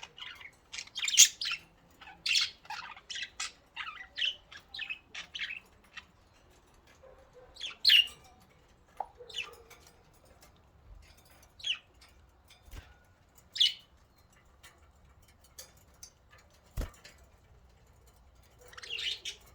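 Pet budgerigars chirping in a rapid flurry of short high notes, thinning out after about six seconds to a few sharp calls a couple of seconds apart. A single sharp click comes near the end.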